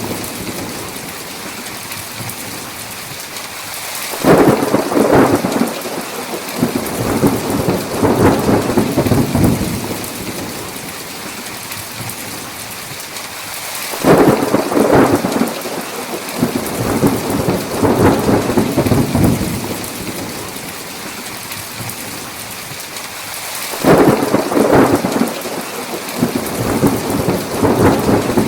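Heavy, steady rain with three claps of thunder about ten seconds apart. Each comes in suddenly and rolls on in pulses for several seconds.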